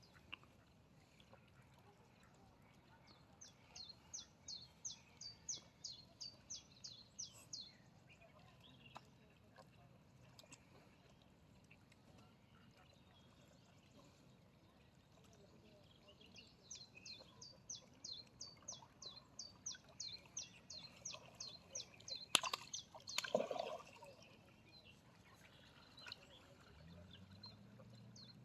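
A small songbird calling in two long series of short, high, downward chirps, about three a second. A couple of sharp knocks come about two-thirds of the way through, and a low hum sets in near the end.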